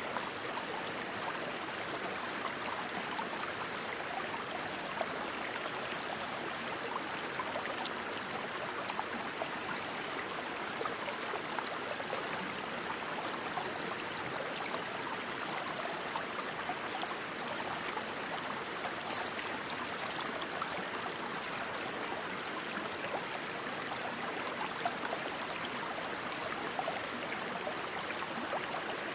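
Rushing stream water flowing steadily. Short high-pitched chirps come and go over it, with a quick trill of them about 19 seconds in.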